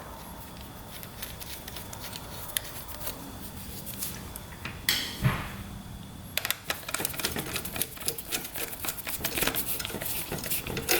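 Small metallic clicks and taps of hand tools on motorcycle battery terminal hardware, turning into a dense run of rapid, irregular clicking in the second half, as when a terminal bolt is tightened.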